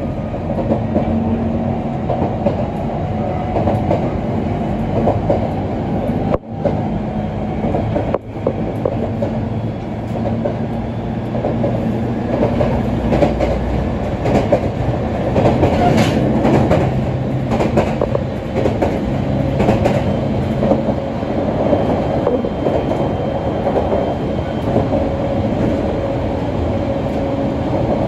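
ET127-series electric train running along the line, heard from inside the car: steady rolling noise of wheels on rail with a humming tone and clicks over rail joints.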